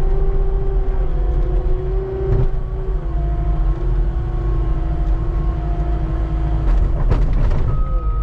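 Skid steer engine and hydraulics running steadily under load while scraping snow, with a whine that drops slightly in pitch about three seconds in. A short burst of clatter comes about seven seconds in.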